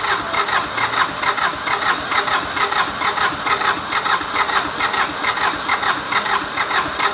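Kubota D905 three-cylinder diesel engine running steadily at idle with an even, rhythmic clatter.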